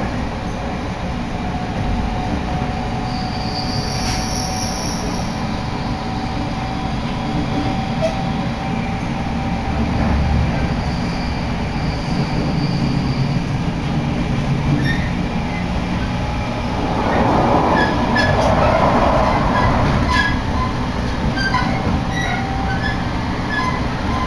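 A passenger train running, heard from inside the carriage: a steady rumble of wheels on rail with faint high tones. There are light scattered ticks in the last third, and the noise swells louder for a few seconds about two-thirds of the way through.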